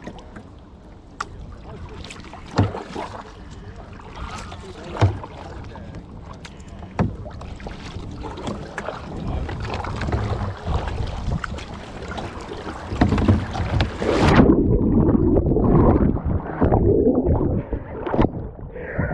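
Kayak on the water with a few sharp knocks of the paddle or body against the hull and water sloshing. About fourteen seconds in, the sound suddenly goes muffled and dull, with loud churning water, as the kayaker capsizes and the camera goes under or is covered by water.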